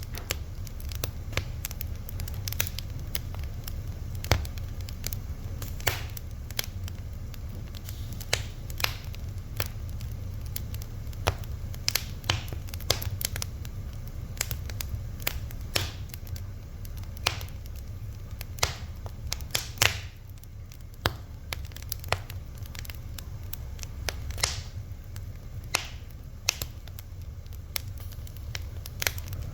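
Wood fire burning with irregular sharp crackles and pops, several a second at times, over a steady low rumble of the flames.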